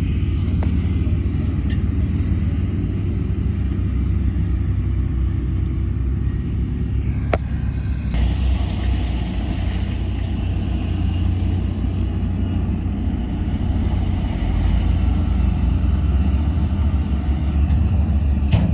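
Heavy diesel construction machinery running steadily with a low engine sound, with a single sharp click about seven seconds in.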